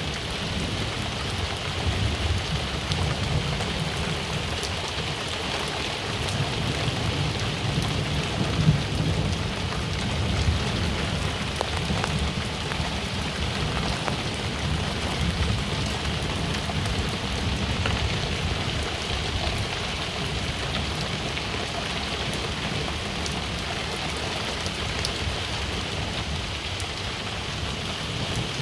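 Steady rain falling and pattering on surfaces, with separate drops ticking. Low rumbles of thunder swell and fade beneath it, strongest a few seconds in and again from about six to eleven seconds in.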